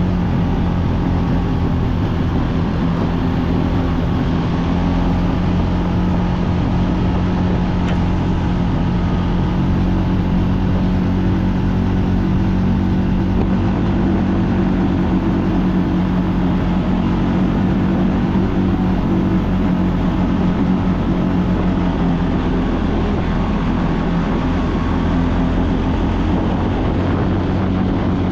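ATV engine running steadily under way, a constant drone with little change in pitch.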